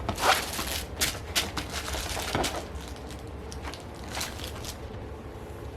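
A small puppy playing and mouthing at something: irregular clicks, scratches and rustles, busiest in the first couple of seconds and then sparser.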